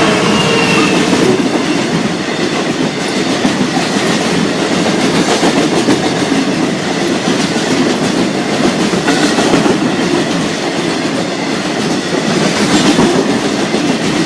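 Freight train hauled by a Class 66 diesel locomotive passing close by over a level crossing: a loud, steady rumble of wagons with wheels clattering over the rail joints.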